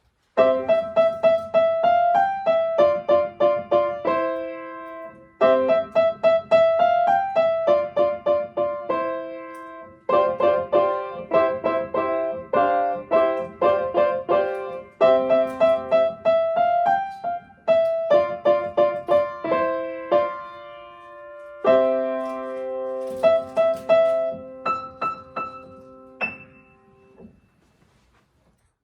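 Solo piano playing a short piece: a melody of separate struck notes over chords, in phrases with short pauses between them. It ends on a final chord that rings and fades away near the end.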